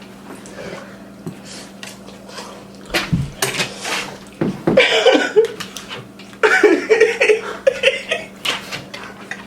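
Bursts of coughing and laughter from people reacting to the burn of very spicy ramen noodles, starting about three seconds in after a quiet stretch.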